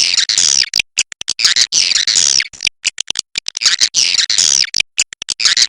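Swiftlets' twittering 'inap' call, the roosting call played in swiftlet houses to make the birds settle: loud stretches of dense, rapid chirring twitters about a second long, alternating with runs of sharp separate clicks.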